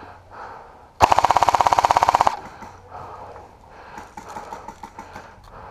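Airsoft gun firing one full-auto burst of about twenty rapid shots, about fifteen a second, lasting just over a second and starting about a second in. Faint ticks and rustling follow.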